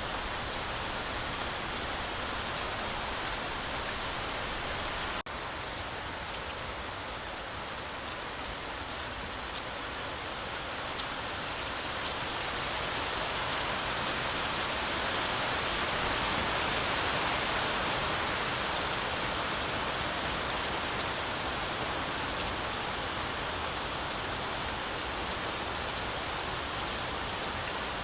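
Heavy rain falling steadily, a dense even hiss that grows a little louder in the middle and then eases back. It cuts out for an instant about five seconds in.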